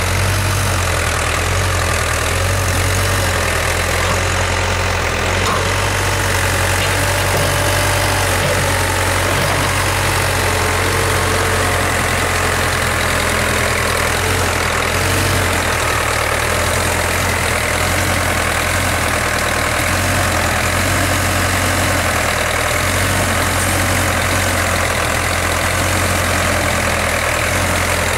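Backhoe engine running steadily at a constant speed, a continuous low hum with no revving.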